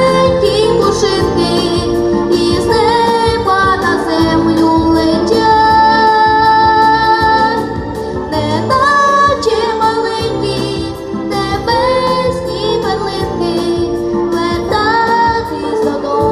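A female voice singing a song over a backing track with a steady beat.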